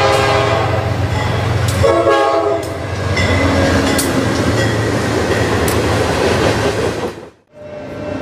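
Diesel locomotive's multi-note air horn sounding a long chord that ends about two and a half seconds in, then the rumble of the locomotive and freight cars passing close by, with sharp wheel clacks over the rail joints. The sound drops out abruptly near the end.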